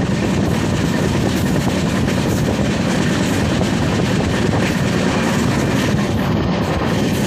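Passenger train running along the track, heard from an open coach doorway: steady, loud running noise of the wheels on the rails.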